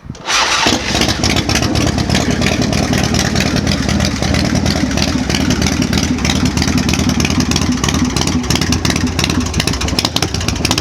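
1990 Harley-Davidson Softail's 1340 cc Evolution V-twin engine, just started on the choke, running steadily.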